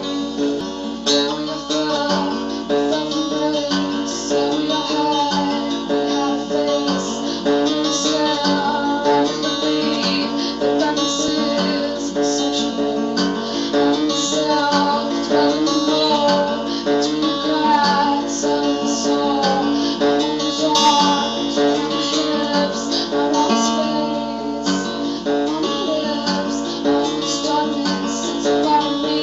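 Music: an acoustic guitar strummed in a steady rhythm, playing a song's accompaniment.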